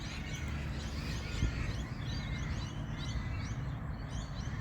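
Several birds chirping, many short high calls overlapping, over a steady low outdoor rumble, with a soft thump about a second and a half in.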